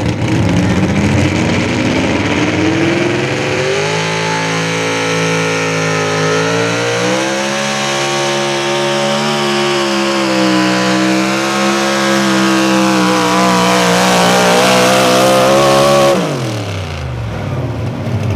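Modified 4x4 pulling truck's naturally aspirated 650-cubic-inch Sonny Leonard Hemi V8 at full throttle on a sled pull. The revs climb over the first few seconds, then hold high with a slight waver for about twelve seconds. Near the end the engine lets off and the revs fall away sharply, ending the pass.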